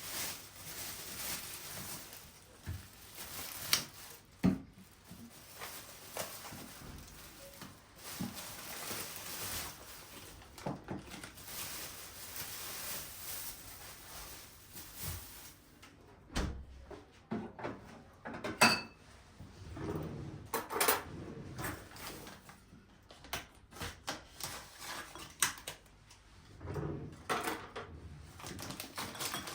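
Household handling sounds: dishes and utensils clinking and knocking, with drawer or cupboard thumps. An even hiss runs under the first half.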